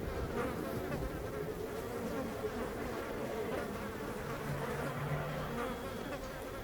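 Honeybee swarm buzzing steadily as the bees take flight and leave their cluster in the tree: a dense, continuous hum of thousands of wings.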